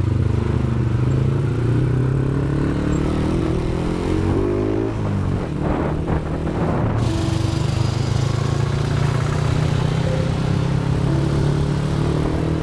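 Motorcycle engine pulling away under load, its pitch rising for about five seconds, then a brief break before it settles into a steady run.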